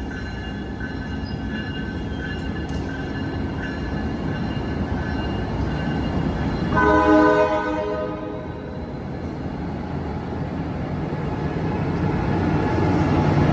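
Amtrak Capitol Corridor passenger train pulling out, its cars rolling past with a steady low rumble that builds toward the end. About seven seconds in, the train horn sounds one short blast of about a second, the loudest sound.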